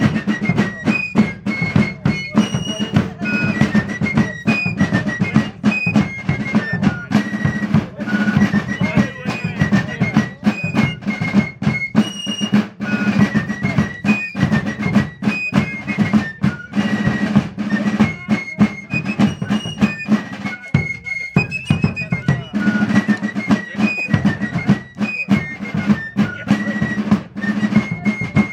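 Fife and drums playing a march tune: a shrill fife melody over rapid snare drum rolls and bass drum beats. The music breaks off briefly about two-thirds of the way through, then starts again.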